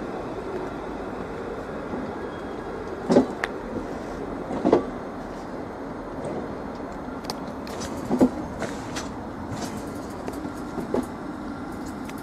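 Thameslink electric train rolling slowly along the platform, a steady rumble and hum broken by four loud clunks.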